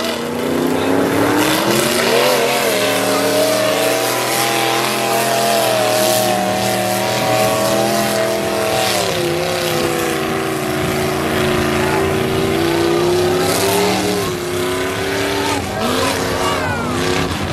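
Mud-racing truck engine running hard at high revs. Its pitch climbs about two seconds in, holds, and drops about nine seconds in, over a steady haze of noise.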